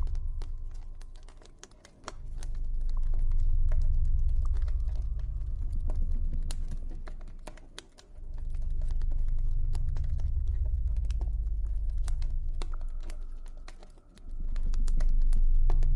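Campfire crackling, with frequent irregular sharp pops and snaps, over a deep low ambient drone that swells and fades away about every six seconds.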